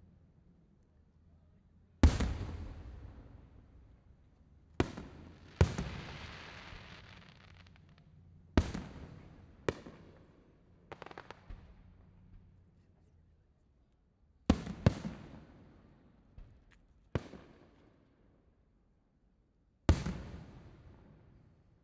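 Aerial fireworks shells bursting: about ten sharp booms spaced one to three seconds apart, each rumbling away afterwards. A hissing spell follows one burst about six seconds in, and a short run of crackles comes about eleven seconds in.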